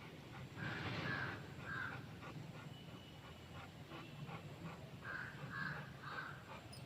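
An animal calling: two series of three short calls, the first about a second in and the second about five seconds in.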